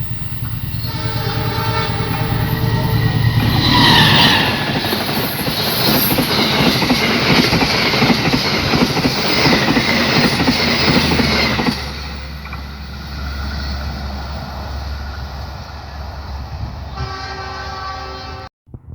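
A train passing close. Its horn sounds at the start and again near the end, and between the two blasts there are several seconds of loud rushing and clatter from the wagons, easing to a low rumble.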